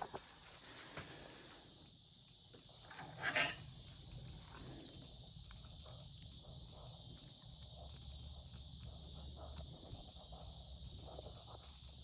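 Crickets chirping steadily in a regular pulsing rhythm, with a short clatter about three seconds in and a few small knocks from handling bike parts.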